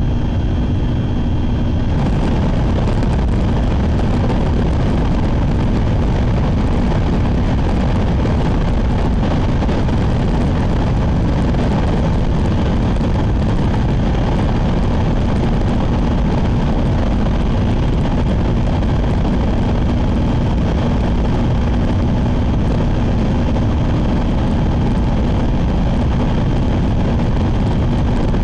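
Cabin noise of a Sakura Shinkansen running at speed: a steady, loud low rumble. About two seconds in, a broader rushing noise rises over it and covers the steady tones heard before.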